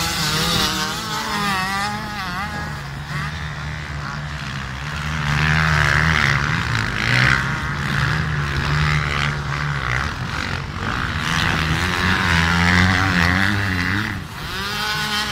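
Several racing motorcycle engines revving up and down as the bikes pass on the beach race course, overlapping one another. They swell loudest about a third of the way in and again a little past the middle, then dip briefly near the end.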